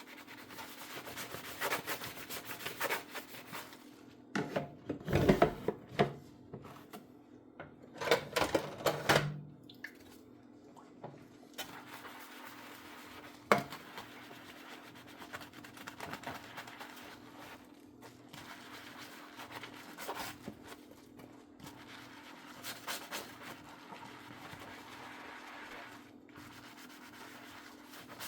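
Dishes being scrubbed by hand with a sponge, a steady rubbing and scraping, with clunks of dishes knocking against each other or the sink a few times, loudest about five and eight seconds in. A faint steady hum sits underneath.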